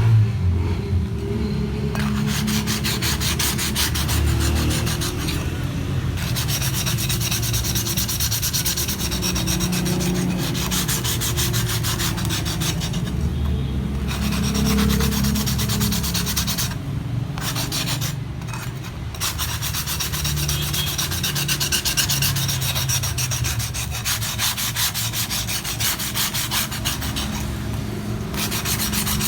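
Continuous rubbing and scraping with a fast, gritty texture, broken by a few short pauses about halfway through.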